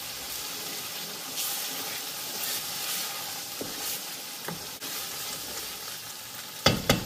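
Blended pepper mix sizzling as it fries in a pot, stirred and scraped with a wooden spatula. Two sharp knocks near the end.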